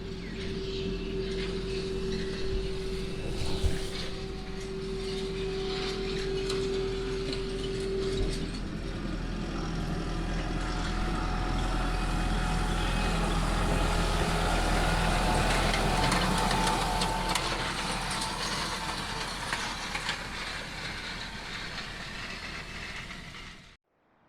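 Fendt 514 tractor running under load as it pulls a rotary hay rake, growing louder to a peak about two-thirds of the way through and then fading. A steady whine sounds over the engine for the first third. The sound cuts off suddenly just before the end.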